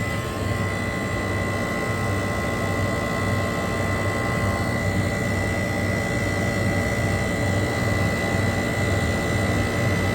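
Rooftop refrigeration condensing unit of a low-temperature display freezer running: a steady motor hum and fan whoosh, with a thin, steady high whine over it.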